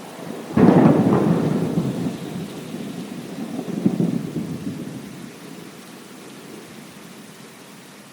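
A thunderclap breaking suddenly about half a second in and rolling off over several seconds, swelling again briefly near the middle, over steady rain.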